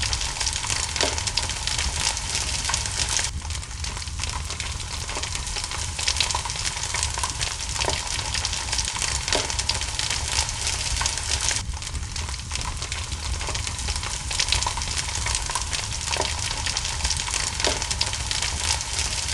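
Steady rain hissing together with a crackling wood fire, with a few sharper pops scattered through it over a low rumble.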